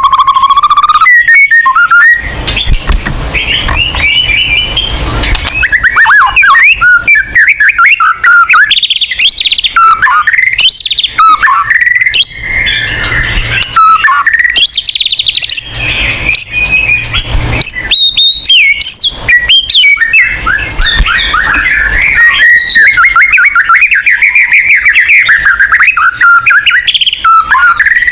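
White-rumped shama (murai batu) in full song: a long, fast run of varied chirps, trills and whistles, with only short breaks.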